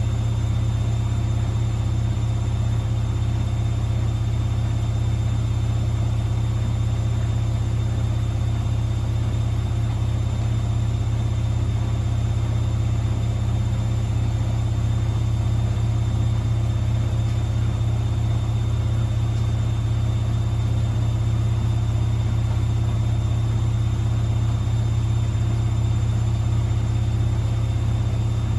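Privileg washing machine in its spin cycle, the drum spinning at a steady speed: a steady low hum with a faint high-pitched motor whine over it.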